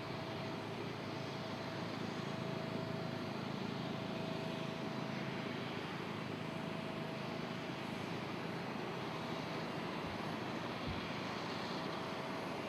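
Steady rush of a jet airliner's engines with a thin steady whine over it, swelling slightly through the middle.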